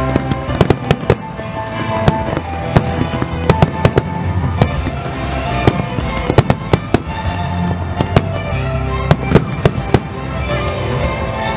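Aerial firework shells bursting with many sharp bangs in quick, irregular succession, over loud music with a steady bass.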